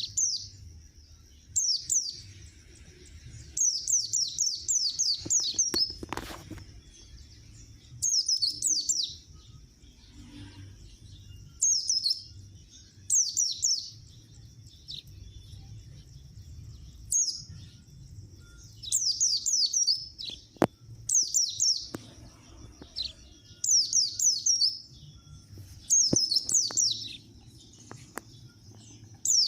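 A white-eye (pleci) chirping: runs of three to seven quick, high, downward-slurred notes, repeated every one to three seconds. A faint low hum lies underneath, with a couple of single clicks.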